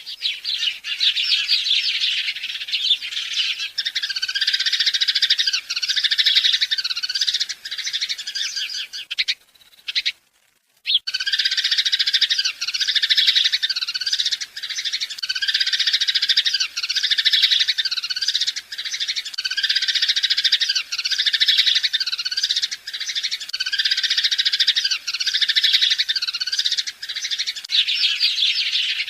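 A dense chorus of many small birds chirping and twittering together, continuous and busy, broken by a brief silent gap about ten seconds in.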